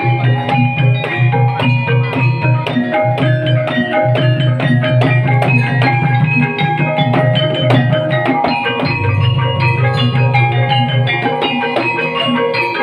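Banyumasan gamelan music playing continuously: repeating mallet-struck tuned notes over a steady low drum beat.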